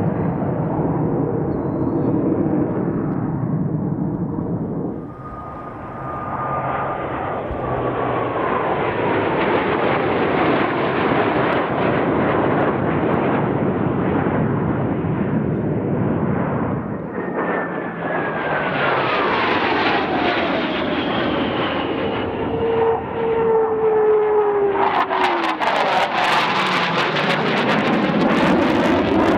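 F/A-18 Hornet jets flying low past, a continuous jet roar. A whine falls in pitch as a jet goes by about five seconds in, and again more slowly from about 17 to 25 seconds. A harsh crackling pass follows near the end.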